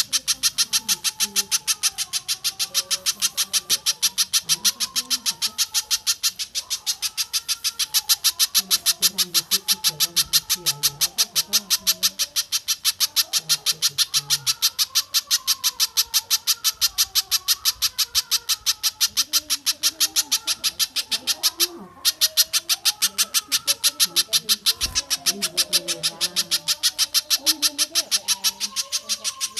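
Recorded bird calls for songbird training: a long, even series of rapid high-pitched notes, about three to four a second, with one brief break about two-thirds of the way through, over fainter, lower calls.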